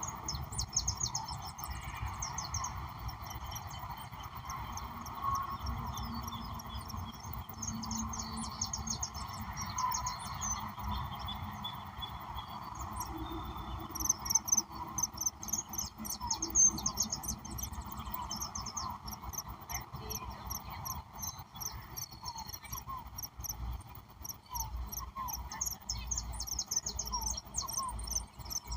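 Crickets and other insects chirping steadily, with birds calling over them in runs of short, high chirps, loudest about halfway through.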